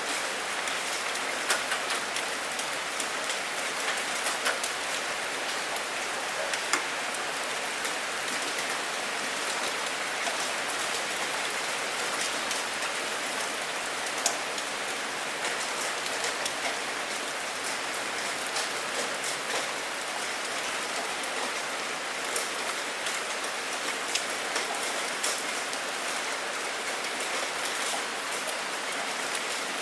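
Steady heavy rain, with many sharp individual drop impacts ticking on a nearby surface among the dense hiss of the downpour.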